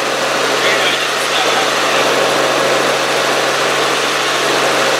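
Helicopter turbine and rotor noise heard from inside the cabin: a loud, steady drone over a constant low hum.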